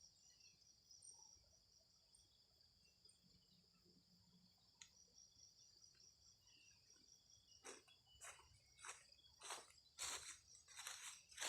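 A steady, high insect trill of the cricket kind runs throughout. From about two-thirds of the way in, footsteps crunch through dry leaf litter, about two a second, growing louder as they come closer.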